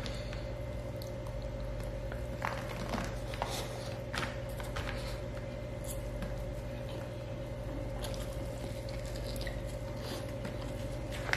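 Close-miked eating: wet chewing and squishy mouth smacks as rice and curry are eaten by hand, with scattered short clicks. A steady electrical hum runs underneath.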